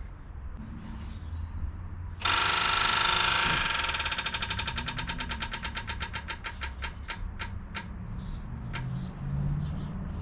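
Electric fuel pump switching on about two seconds in with a loud buzz, then ticking quickly and slowing steadily to a couple of ticks a second, the usual sign of the pump filling the lines and building fuel pressure.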